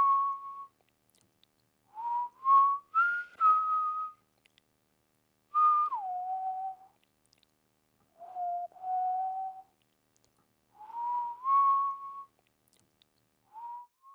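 A person whistling in short breathy phrases of two or three held notes, mostly stepping up in pitch and one falling, with silence between them. Five phrases, and a sixth begins near the end.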